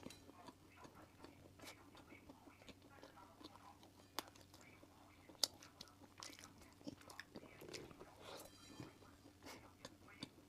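Close-miked chewing and biting of fried rice and sausage: soft wet mouth sounds with many small clicks, and a sharper click about four seconds in and a louder one about five and a half seconds in.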